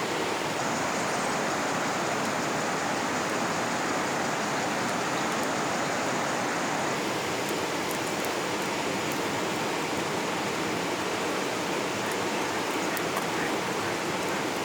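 River water rushing steadily, an even unbroken wash with a few faint ticks.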